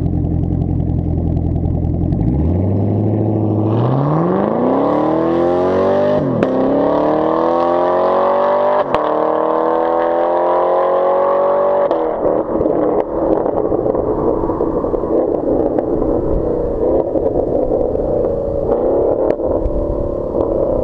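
2019 Camaro SS's 6.2-litre V8, with its muffler and secondary catalytic converters removed, accelerating hard. The engine note climbs about two seconds in and keeps rising, dipping briefly twice. About twelve seconds in the throttle lifts, and it settles into a rougher, steady drone.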